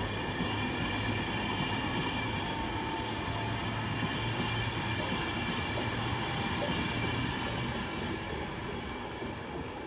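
Train running at a station platform: a steady rumble with a layered whine of several held tones, easing slightly near the end.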